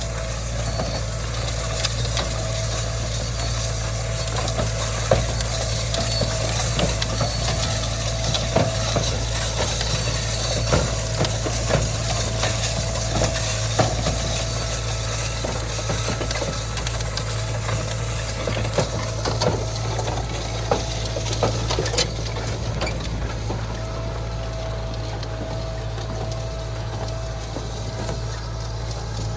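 Kubota M9000 tractor's diesel engine running steadily, under a constant clatter of metal clicks and ratcheting from the working machinery.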